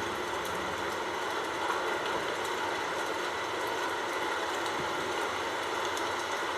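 Steady even hiss of falling rain with faint scattered droplet ticks, a recorded rain sound effect.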